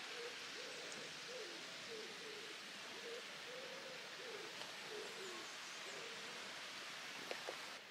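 Faint woodland ambience: a bird gives a string of short, low hooting notes, each rising and falling, over a soft steady hiss.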